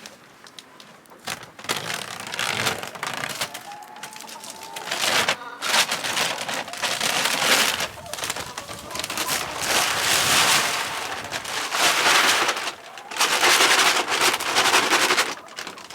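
Chicken feed poured from sacks into a feed barrel: a loose rattling hiss in several long pours with short pauses between them.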